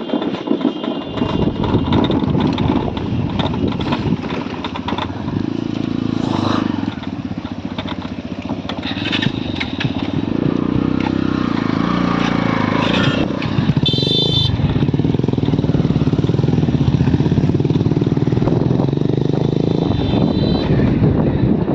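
Motorcycle engine running under way, its note rising and falling with the throttle. The engine comes in about a second in, and a brief high-pitched tone sounds about two-thirds of the way through.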